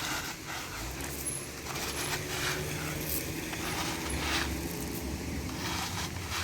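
Loose stones clinking and clattering as they are dug and tossed by hand, several separate clinks and scrapes spread over a few seconds, with a low rumble underneath.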